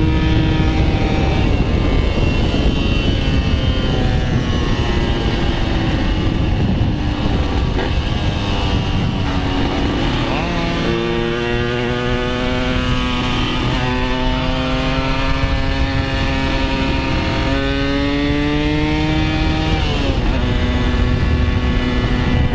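Yamaha RX-King's 135 cc two-stroke single-cylinder engine under way, its pitch sagging slowly at first, then climbing and dropping several times from about halfway as the rider works the throttle and gears. Wind rushes over the microphone.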